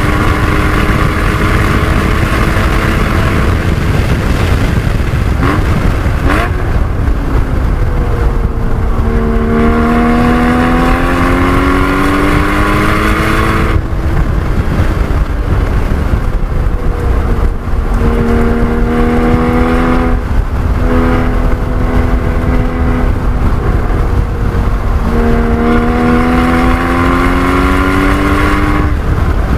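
Porsche 981 Cayman GT4's 3.8-litre flat-six at racing speed: its pitch falls under braking, then climbs hard through the revs several times, breaking off briefly at each shift. A heavy, steady rush of noise runs underneath.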